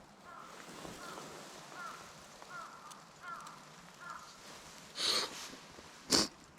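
A crow cawing repeatedly in a steady series, about one call every three-quarters of a second. About five seconds in there is a short rustle, and near the end a single sharp knock, the loudest sound here.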